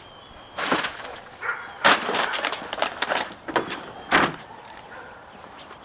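A handful of sharp clatters and knocks, as of objects being handled and dropped, loudest about two seconds in.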